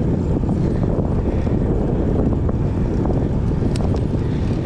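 Steady wind noise rumbling over the microphone of a bicycle rider moving along a road, with a couple of faint ticks near the end.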